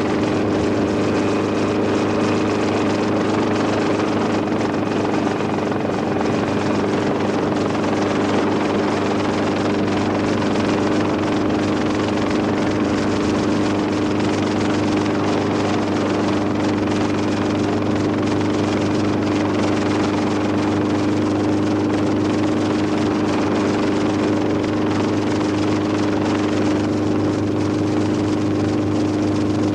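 Helicopter running steadily, a constant engine and rotor drone with a strong low hum and a wash of noise, never rising or falling.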